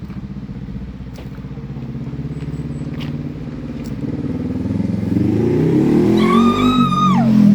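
500cc motorcycle engine running with a pulsing note, then revving up, its pitch rising and louder from about halfway through. Near the end a person's high held whoop rides over it and falls away in pitch.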